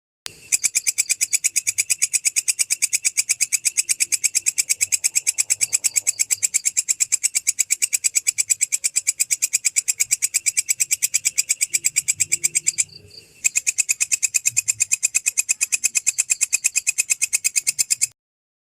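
An insect stridulating: a fast, even train of shrill chirps, about seven a second, with a brief break about two-thirds of the way through, stopping shortly before the end.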